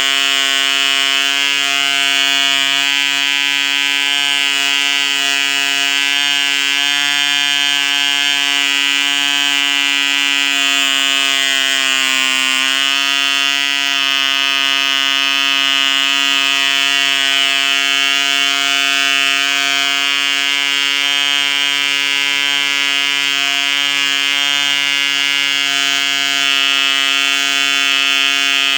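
1959 ED Mk2 1cc model diesel engine running steadily at high speed, turning an 8x4 Master Airscrew propeller: a loud, even buzzing whine. The pitch sags briefly about twelve seconds in, then comes back up.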